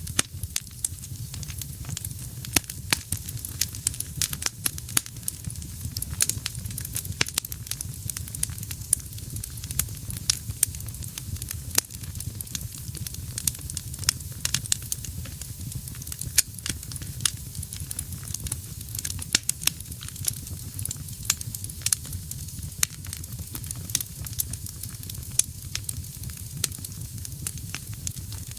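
Wood fire burning in a fireplace: a steady low rumble of flame under constant, irregular sharp crackles and pops from the burning logs.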